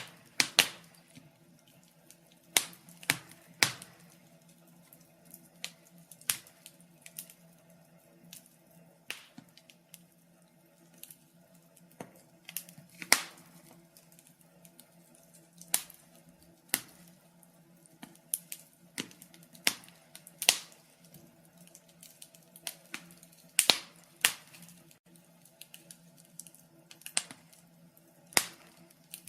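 Wood fire crackling: irregular sharp pops and snaps, several a second at times, with a few louder snaps standing out. A faint steady low hum runs beneath.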